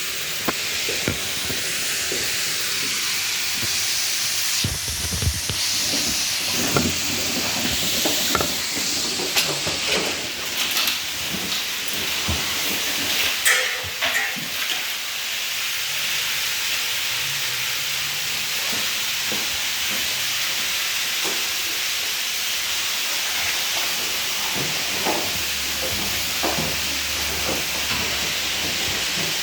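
Whirlpool washing machine running through its cycle: a steady hiss of water with short clicks and knocks scattered through it, thickest in the first half.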